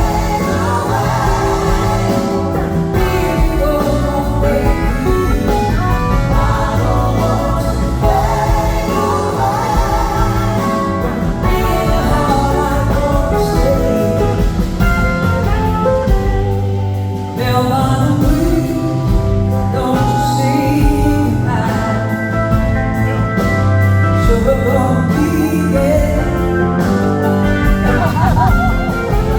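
A live band playing a slow blues-rock song, with singing over the instruments.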